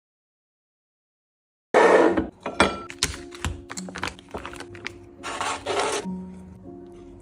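Dead silence, then about two seconds in a sudden loud rubbing scrape, followed by a run of sharp clicks and taps and another rubbing scrape near six seconds, over soft background music.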